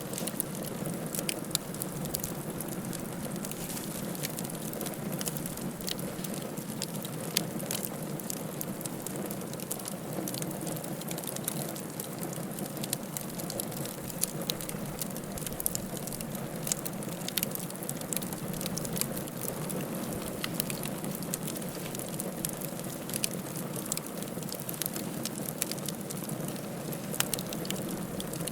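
Wood fire in a fireplace crackling steadily, with frequent sharp pops and snaps over a low, even rustle of burning.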